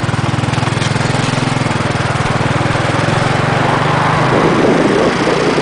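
Motorcycle engine running with a steady, rapid throb. About four seconds in the low throb fades and a rougher, higher rushing noise takes over.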